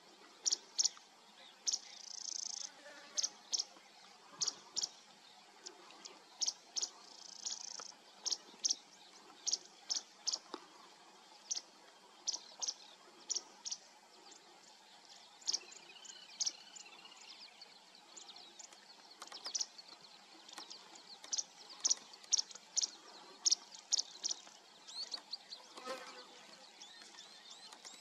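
Small birds calling in the open bush: short, sharp, high chirps repeated irregularly about once or twice a second, with a few thin gliding whistles near the end.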